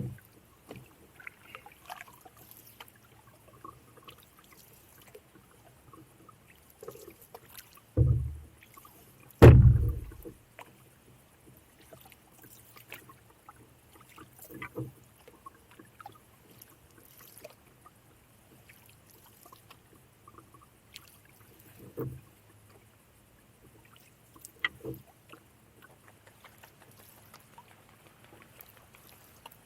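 Canoe being paddled: quiet paddle strokes and water sounds, broken by occasional knocks against the canoe. The two loudest knocks come close together about eight and nine and a half seconds in.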